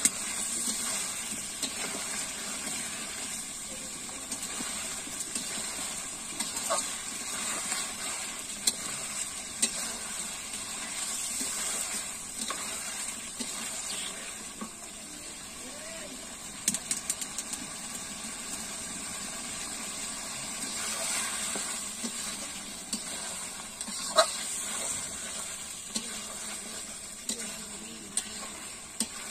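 Chicken curry sizzling steadily in a blackened wok while a metal spatula stirs it, scraping and clicking against the pan every few seconds.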